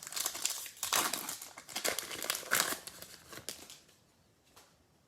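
Trading-card pack wrapper crinkling and crumpling as it is handled, for a little under four seconds, followed by a single light click.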